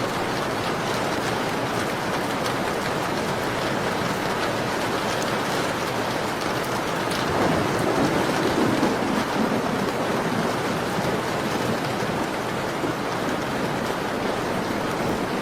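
Steady rain falling against a window, an even hiss at a constant level, with a brief low swell about halfway through.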